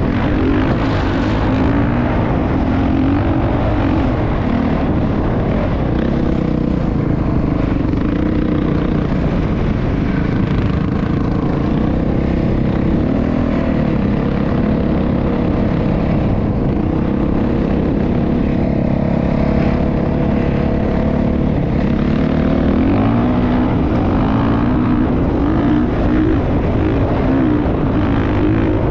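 Motocross dirt bike engine running continuously, its pitch rising and falling again and again as the rider works the throttle.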